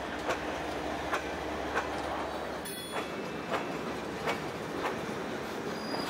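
Canadian National freight train's tank cars and covered hoppers rolling past, their wheels clicking over the rail joints a bit more than once a second. A low rumble drops away about three seconds in.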